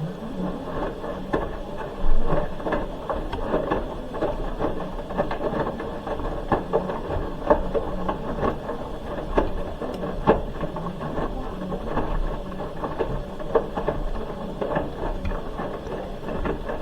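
Hoover H-Wash 300 Plus washing machine tumbling its load mid-wash. The drum starts turning abruptly, with a motor hum and a run of irregular knocks and clicks from the load and drum, the loudest about two seconds in.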